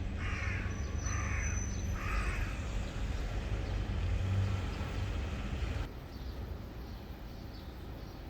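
A crow cawing three times in quick succession, harsh and rasping, over a steady low rumble.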